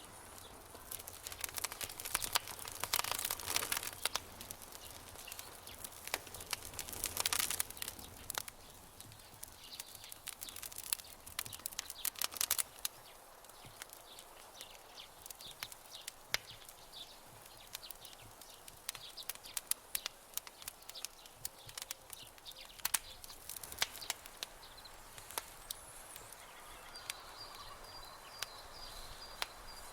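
Campfire crackling, with dense bursts of sharp pops and snaps early on and again a few seconds later, then sparser crackles. Near the end, a faint high, steady chirping joins in.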